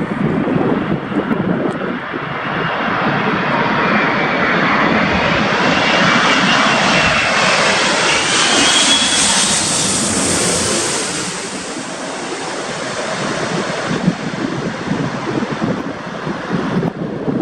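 Jet airliner passing on a crosswind landing, its engine noise swelling to a peak about nine seconds in and then fading, with a faint rising whine near the loudest point.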